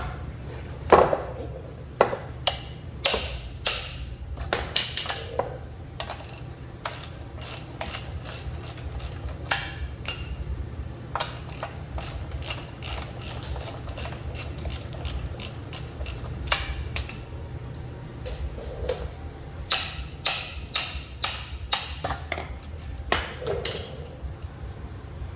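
Hand tools working on the steel front-suspension parts of a truck: an irregular string of sharp metallic clicks and knocks, with a steady low hum underneath.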